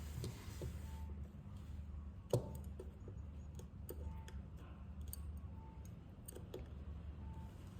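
Light, scattered clicks and taps of small repair tools against an iPhone XR during a battery replacement, with one sharper click about two and a half seconds in, over a steady low hum.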